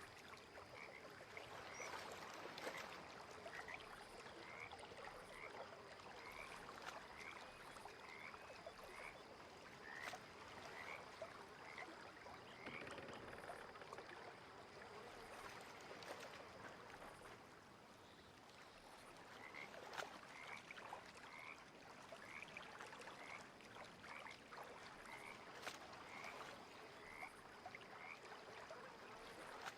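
A frog giving short, high, upward-flicking peeps about twice a second, in two long runs with a pause between. Under them is a faint, steady wash of lake water.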